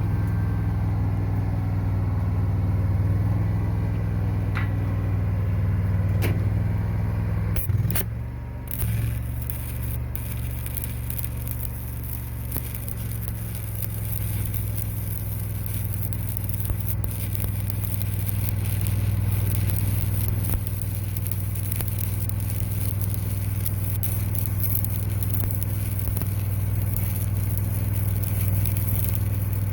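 Stick welding with a 7018 rod: a few sharp clicks, then about eight seconds in the arc catches and crackles steadily as the bead is run. A steady engine drone runs underneath.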